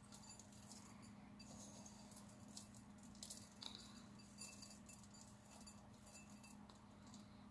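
Faint, scattered pattering and ticking of birdseed sprinkled by hand, the seeds falling onto the peanut-butter-coated roll and into a bowl, over a faint steady hum.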